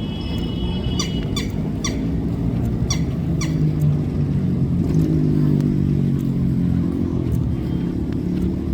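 An engine running steadily at low pitch, swelling a little about halfway through. Over it in the first few seconds come a short held whistle and about five quick sharp bird calls.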